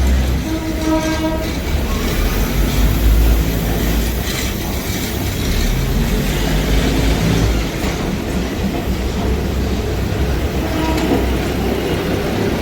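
A diesel train's horn sounds briefly about half a second in, over the heavy, steady low rumble of the train running. A fainter horn note comes near the end.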